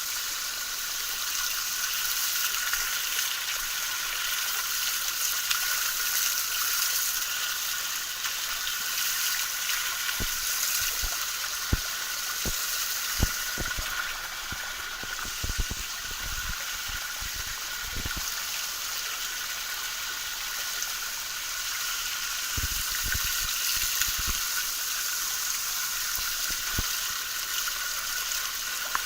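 Small mountain waterfall in a forest, its falling water making a steady, even hiss. Scattered low thuds come in the second half.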